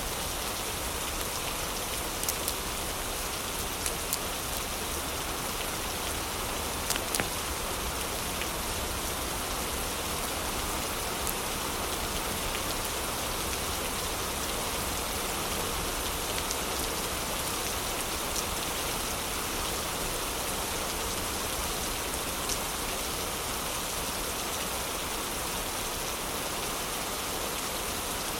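Steady heavy rain, an even hiss with a few sharp clicks scattered through it.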